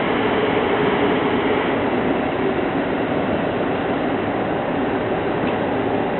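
Train running with a steady, even rumble of wheels and motors, without pauses or sudden changes.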